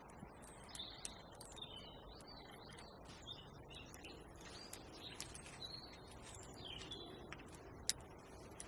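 Small birds chirping and twittering in short, repeated high notes. Scattered sharp little clicks run through it, with one louder click near the end.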